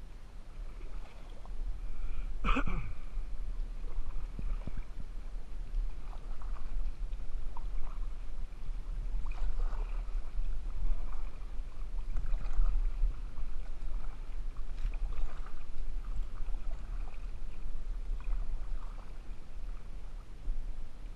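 Kayak paddling: paddle strokes splashing in the water every second or two, over a steady low rumble. A sharper knock comes about two and a half seconds in.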